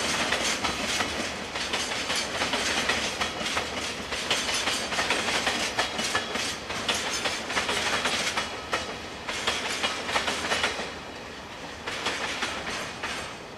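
Freight train of oil tank wagons rolling past, the wheels clattering over the rail joints in a dense run of clicks. It goes briefly quieter about eleven seconds in.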